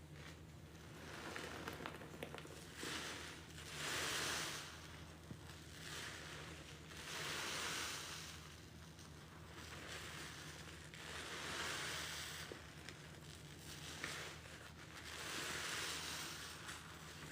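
A soapy sponge loaded with pine cleaner paste being squeezed and rinsed, water streaming out of it in slow swells about every four seconds. A steady low hum runs underneath.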